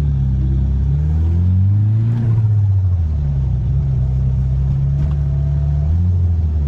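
Turbocharged 4G63 four-cylinder of a 1995 Mitsubishi Eclipse GSX accelerating, its pitch rising, then dropping at an upshift about two seconds in. The engine then runs steadily in the next gear, changing again near the end.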